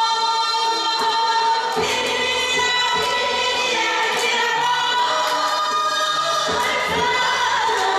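Korean folk song (minyo) being sung with accompaniment, the voice holding long notes that bend and glide, with occasional percussion hits.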